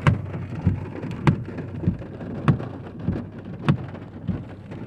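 Heavy rain falling around a car. Through it comes an even clicking about every 0.6 s, alternating a sharper and a duller click.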